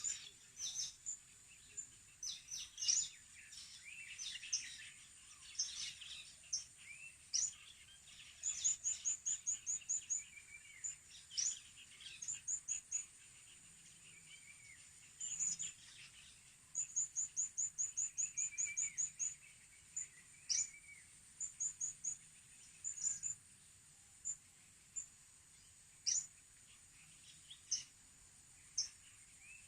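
Small birds calling: sharp high-pitched chips, some in fast runs of about eight a second, mixed with lower warbling notes, over a steady faint high hiss.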